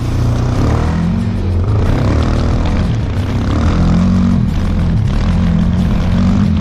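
Motorcycle engine running loud, its pitch rising and falling repeatedly as the throttle opens and closes.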